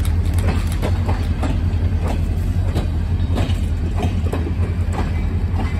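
Passenger railroad cars rolling past at low speed over a steady low rumble, their wheels clicking over rail joints about two to three times a second.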